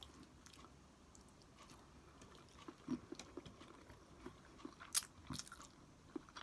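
Faint close-up chewing and mouth sounds of a person eating, in scattered small clicks that start about three seconds in, with one sharper click a little later as the loudest sound.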